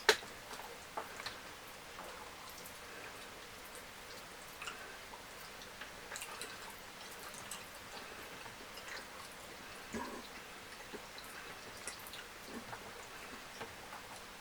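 Close-up eating sounds: scattered small wet clicks and smacks of someone chewing fried fish and fufu with curry, with a sharp click right at the start and a louder smack about ten seconds in.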